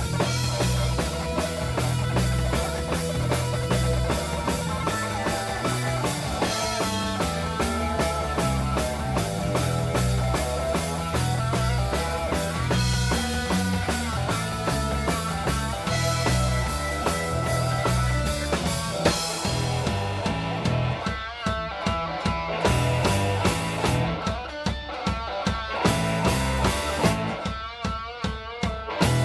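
Live rock band playing an instrumental passage: electric guitar over bass and drum kit. In the second half the cymbals drop out for short stretches.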